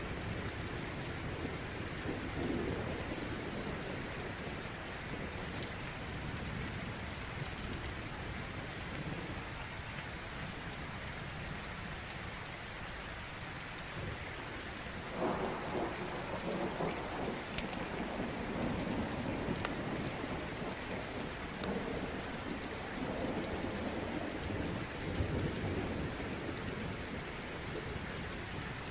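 Steady rain with scattered sharp crackles of a wood fire. About halfway through, a roll of thunder rises and rumbles on for several seconds.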